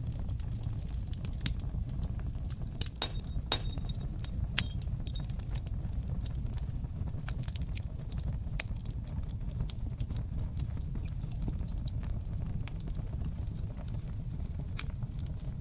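Wood fire in a stone fireplace crackling, with a steady low rumble of the flames under scattered snaps and pops. A burst of sharper crackles comes about three seconds in, and one loud pop a little after four seconds.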